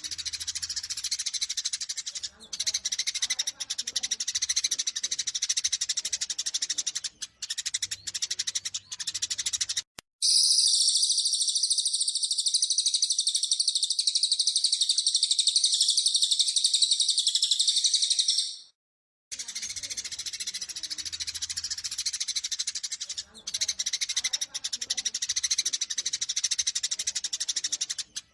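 Eurasian tree sparrows chirping rapidly and densely, the agitated calls of sparrows fighting. About ten seconds in, the chirping gives way to a louder, continuous high-pitched trill lasting about eight seconds, which cuts off abruptly, and after a brief gap the sparrow chirping resumes.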